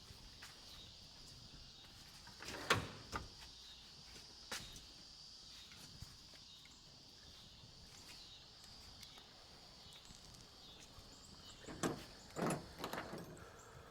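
A few sharp clicks and knocks of hand tools working at the main jet of a Honda GX200 carburetor as it is being unscrewed: three early on, then a close cluster near the end. A steady high insect chirr runs underneath.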